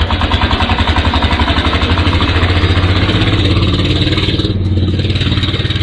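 A vehicle engine running loud and steady with a fast, even pulsing beat, cutting in abruptly.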